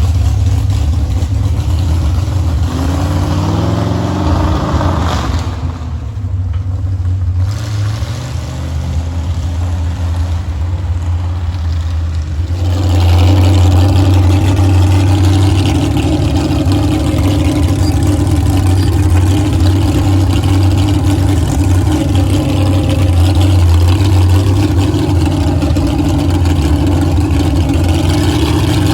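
Monster truck's engine revving. The pitch climbs a few seconds in, the engine eases off for a few seconds, then runs hard and steady from about halfway, climbing again near the end.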